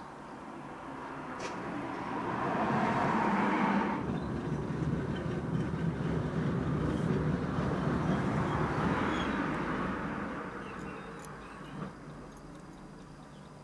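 A vehicle passing by, its noise swelling over a few seconds, holding, then fading away, with a small click near the end.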